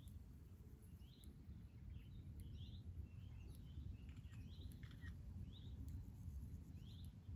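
Songbird giving short rising chirps, faint and irregular, about one a second, over a low steady outdoor rumble.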